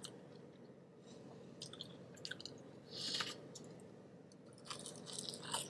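Faint mouth sounds of a person chewing food close to the microphone, with scattered small clicks and a short soft hiss about three seconds in.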